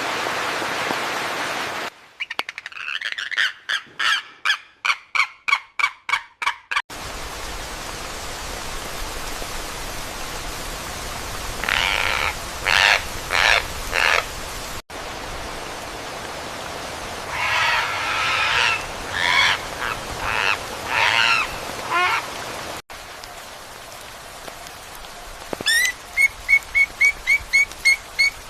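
Bird calls in several spliced-together recordings with abrupt cuts between them. A quick series of repeated calls comes first, then bursts of harsh, squawking calls over a steady background hiss, and near the end a fast run of high, whistled notes repeated several times a second.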